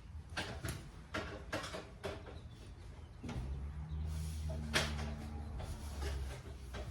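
Scattered light clicks and knocks, with a low steady hum that starts about three seconds in and stops near the end.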